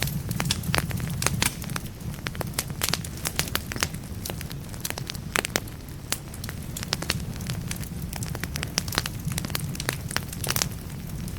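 Log fire burning in a fireplace, crackling with irregular sharp pops and snaps over a steady low rumble.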